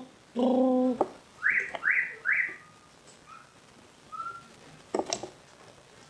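Bird calls: a short low call, then a low call lasting about half a second, followed by three quick rising whistled notes. Two sharp clicks come about five seconds in.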